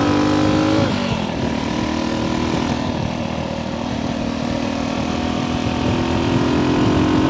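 1964 Honda C200's small single-cylinder engine running under way: the revs drop sharply about a second in, then the engine pulls steadily with its pitch slowly rising near the end.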